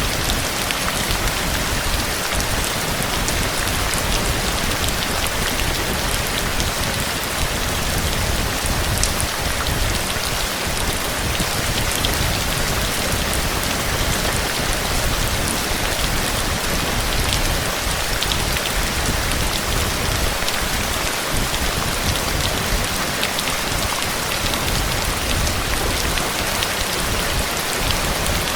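Heavy, steady rain: a dense hiss of rain falling on surfaces, with the patter of individual drops.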